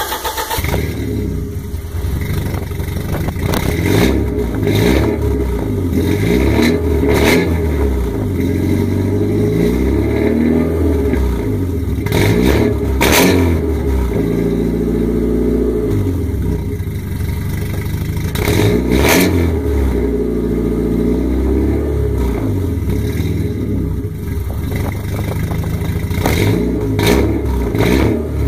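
Porsche 944 four-cylinder engine with no catalytic converter and no resonators, revved repeatedly through its exhaust in short blips and longer rising and falling sweeps, with a few sharp cracks along the way.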